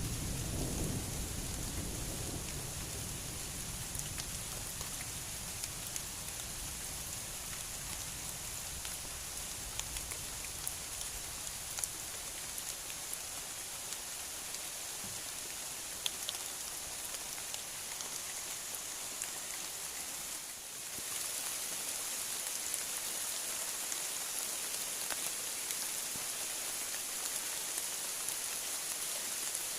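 Heavy rain falling steadily, a continuous hiss with scattered drop ticks; a low rumble of thunder dies away in the first couple of seconds.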